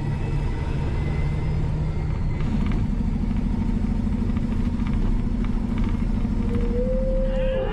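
Vehicle engine and road noise heard from inside the cab, a loud steady rumble. The engine hum shifts to a slightly higher note about two and a half seconds in.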